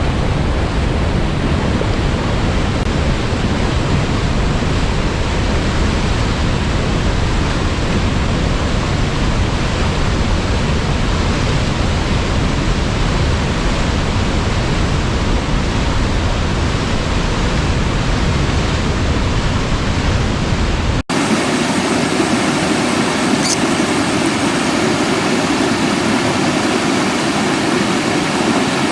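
Steady rush of running water from a river or waterfall. About 21 s in it cuts abruptly to a different water recording with a deeper, more concentrated rush.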